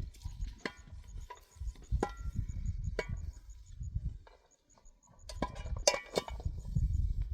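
Irregular sharp knocks and clacks, about a dozen, some with a short ring, over a low rumble; a cluster of louder ones comes in the second half.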